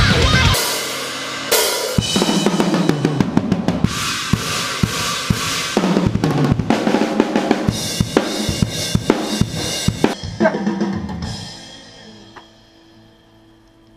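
Drum kit playing a heavy metal part: fast snare and bass drum hits under cymbals, stopping about ten seconds in, with the cymbals ringing out and fading.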